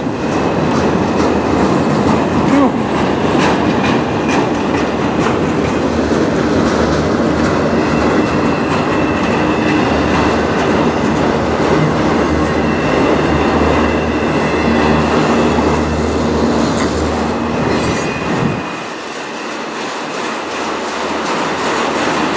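Empty autorack freight cars rolling slowly past on the rails: a steady, loud rumble of steel wheels on track, with a thin, high, steady squeal from the wheels from about a third of the way in. The deep rumble drops away about three-quarters of the way through, then builds again near the end.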